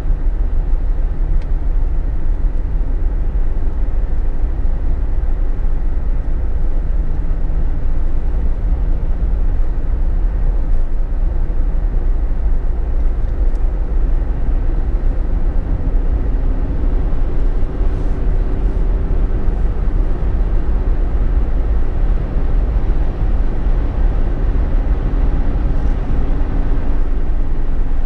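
Jeep Wrangler JK being driven, heard from inside the cabin: a steady low rumble of road and engine noise, with faint engine tones that drift slightly in pitch.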